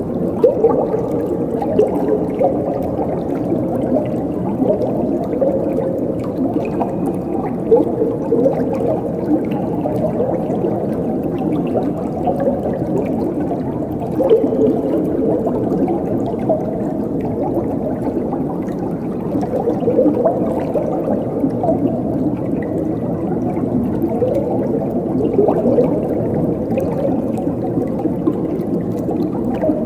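Flowing water gurgling and bubbling steadily, its sound sitting low and full with little hiss.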